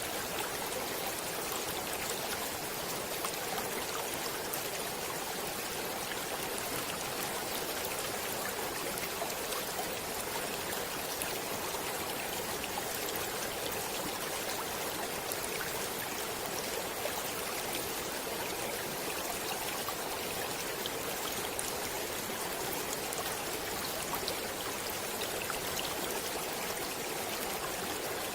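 A stream of flowing water running steadily: an even rush with small scattered ticks and splashes through it.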